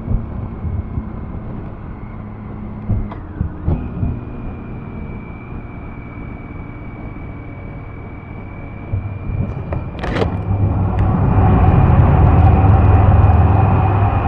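Riding noise on a BMW K1600B motorcycle: steady wind rush and engine rumble with a thin steady whine. It swells louder from about nine seconds in, with a sharp click near ten seconds.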